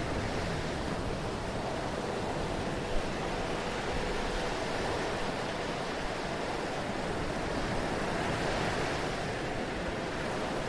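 Ocean surf: a steady, even rush of waves washing onto the shore.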